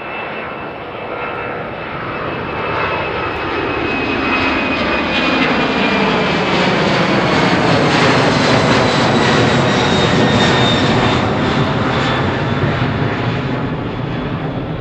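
The engines of a plane passing close by, loud and growing louder to a peak about halfway through, with a whine that slowly falls in pitch as it goes past.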